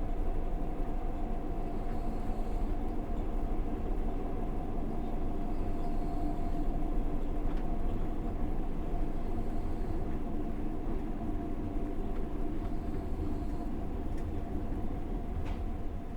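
Passenger train running along the rails, heard from inside the carriage: a steady rumble with a faint steady hum above it.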